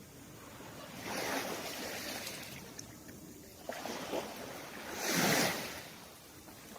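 Sea waves washing in on the shore: a wash of surf swells about a second in and again, louder, about five seconds in.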